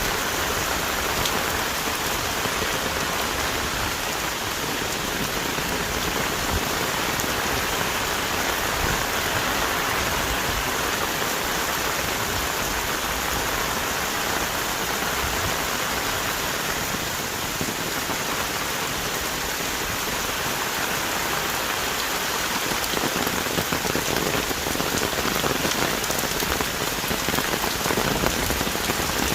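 Heavy tropical rain pouring steadily onto rainforest trees and foliage, a dense even hiss of countless drops, with a little more crackle of drops near the end.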